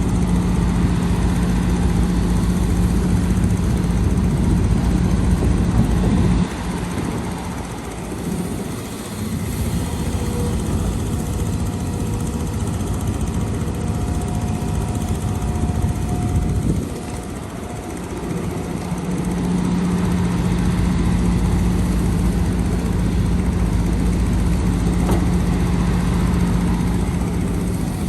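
Diesel engine of heavy earthmoving machinery running with a loud, steady drone. It eases off about six seconds in and again around seventeen seconds in, then builds back up.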